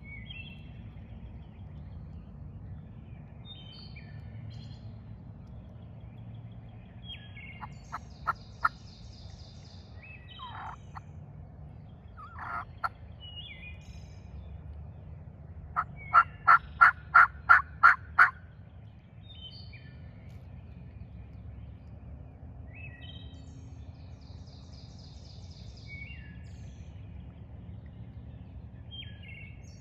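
Wild turkey yelping: a run of about eight loud, evenly spaced yelps in the middle, after a few shorter calls. A songbird repeats its short song throughout.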